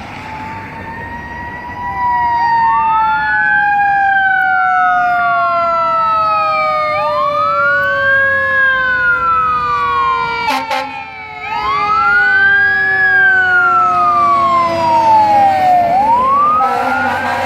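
Fire engine siren wailing, its pitch rising quickly and falling slowly about every four and a half seconds, over a second, lower siren tone that slides steadily downward. It gets louder about two seconds in and breaks off briefly around ten seconds in.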